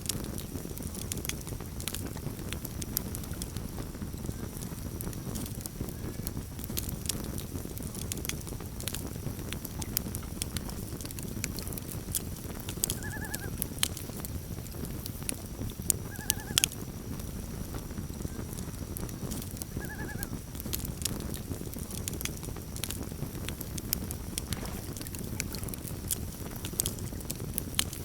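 Campfire burning with a steady low rush and frequent sharp crackles and pops. Three short, rising-and-falling animal calls come about halfway through, a few seconds apart.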